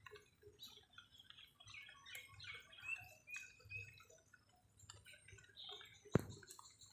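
Birds chirping in many short, faint calls, with three short whistled notes around the middle. A single sharp click comes near the end.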